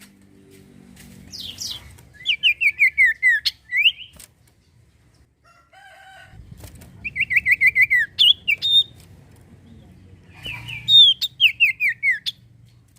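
Common iora (sirtu/cipoh) singing loud, active song in three bursts. Each burst is a rapid run of sharp whistled notes, each note sliding downward, closed by a few higher notes.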